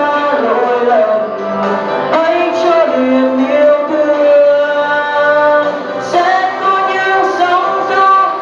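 A live vocal performance of a pop song: sung melody with long held notes over an instrumental backing track.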